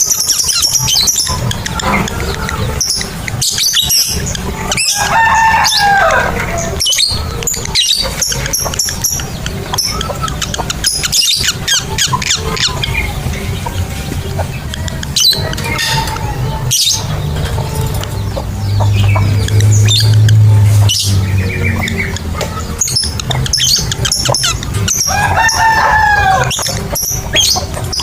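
Lovebirds chattering in rapid shrill chirps and clicks, over background music.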